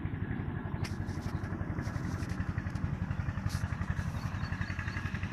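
A small engine running steadily at idle with a rapid, even low throb.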